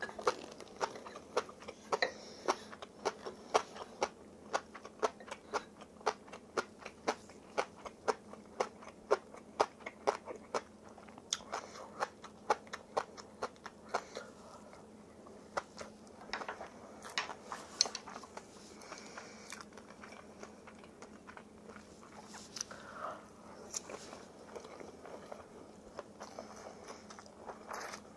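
Close-miked chewing of crunchy food: a quick run of sharp crunches, about two a second, that thin out and soften about halfway through.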